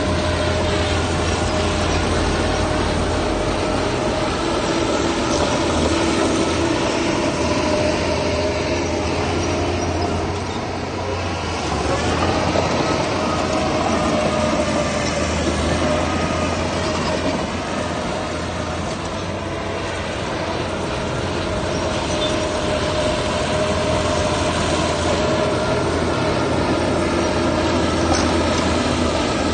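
Heavy diesel machinery running steadily, a loud drone with a whining tone that dips and rises a little about a third of the way in.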